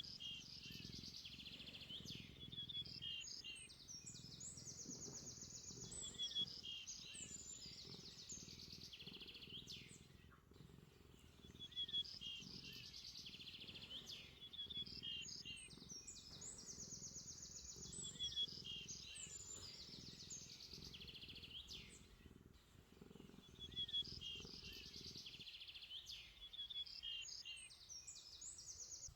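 Quiet bird song: the same chirping, trilling phrase comes back almost identically about every six seconds, like a looped recording, over a faint low hum.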